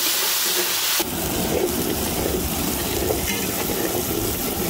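Chopped tomatoes and fried shallots sizzling in hot sesame oil in a large pot. About a second in, the sound switches abruptly to a lower, rougher frying noise as the mixture cooks down.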